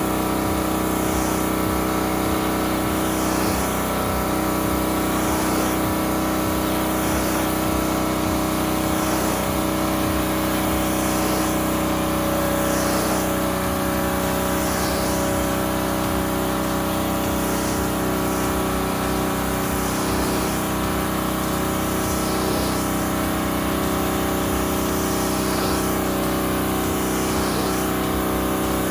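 Gas-engine pressure washer running steadily under load, its engine drone constant, with a spray hiss that swells and fades every second or two.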